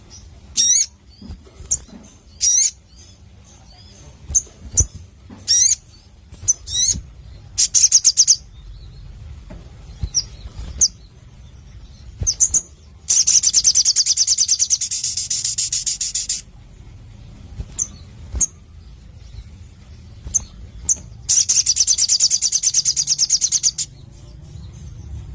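Little spiderhunter (sogon) singing: a string of short, sharp high calls, some sliding down in pitch. Two long, loud, fast trills of about three seconds each come about halfway through and again near the end.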